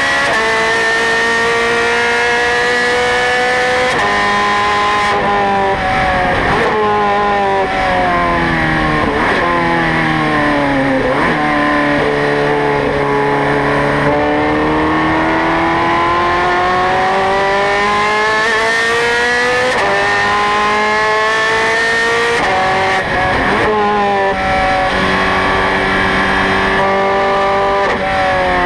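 Ferrari 430 Scuderia's V8 engine at racing speed, revving hard with rising pitch and abrupt drops at quick gear changes. Around the middle the revs fall away through several downshifts, then climb slowly through one long pull before more quick upshifts near the end.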